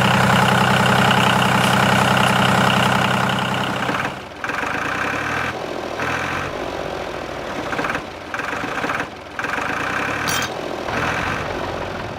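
A motor running steadily for about four seconds, then heard again in a string of short segments, each cut off by a brief gap.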